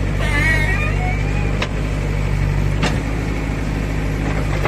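JCB 3DX backhoe loader's diesel engine running steadily under work. A brief wavering high tone sounds in the first second or so, and two sharp knocks come about a second apart in the middle.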